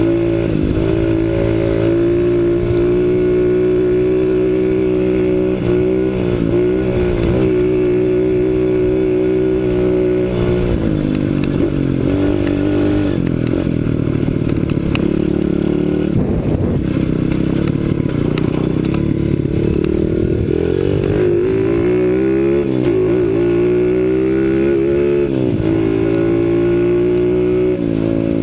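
A CRZ 125 Pro pit bike's single-cylinder four-stroke engine runs under way on a dirt ride. Its pitch holds steady for stretches, falls off twice in the middle, and rises and falls as the throttle is worked before dropping near the end.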